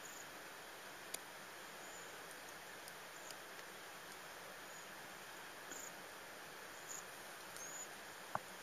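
Cedar waxwings giving short, faint, very high-pitched thin calls, about half a dozen scattered through, over a steady hiss. A sharp click near the end is the loudest sound.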